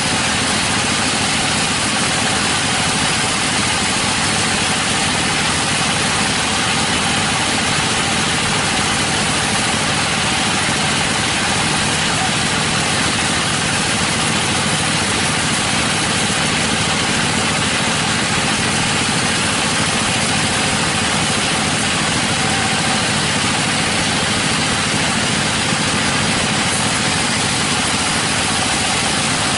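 Sawmill machinery running steadily: a loud, unbroken mechanical noise with no starts, stops or impacts.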